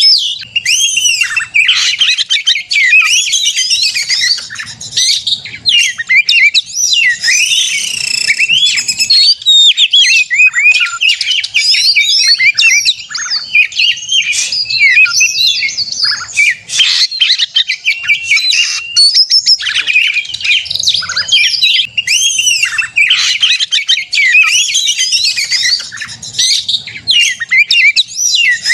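Oriental magpie-robin singing non-stop in its agitated fighting mode: a fast, dense run of varied whistles, sweeping trills and harsh notes with hardly a pause.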